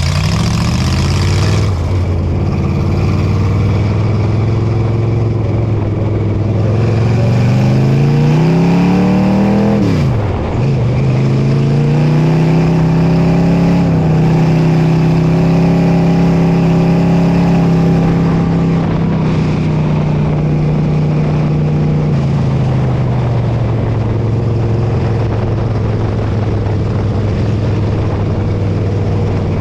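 Dirt modified race car's V8 engine running hard: the revs climb for about four seconds, drop sharply about ten seconds in, then hold steady and ease lower a little past twenty seconds.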